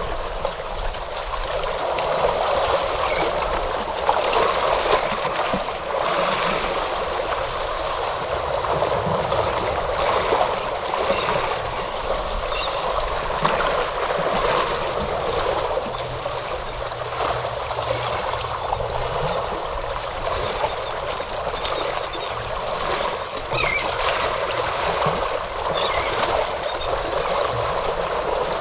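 Moving water splashing and gurgling steadily.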